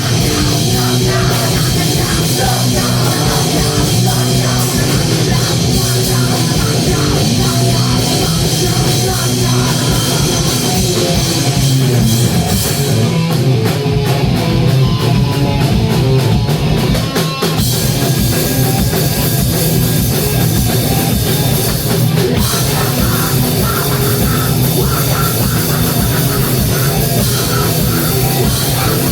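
A rock band playing live, loud and heavy, with a drum kit driving the music and a brief drop about 17 seconds in.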